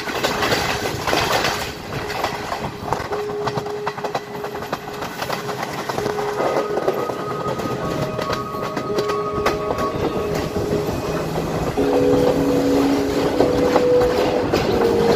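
Passenger train running along the track, heard from an open carriage window: the rumble and clickety-clack of the wheels on the rails. From about three seconds in, short held notes at changing pitches sound over it, stronger near the end.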